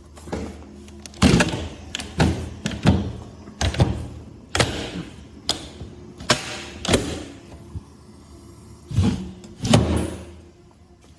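A series of irregular knocks and thuds, about a dozen, some followed by a short scraping smear, over a faint low hum.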